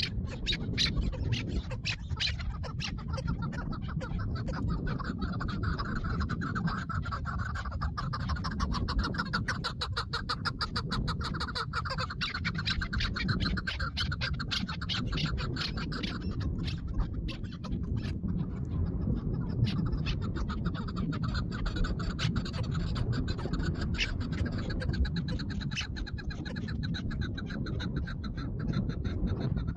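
Chukar partridge calling: a long run of rapid, repeated clucking notes.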